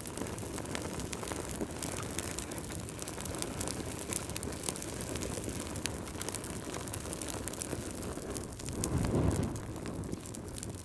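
Wood fire crackling and popping, with a low rumble of the flames that swells for about a second near the end.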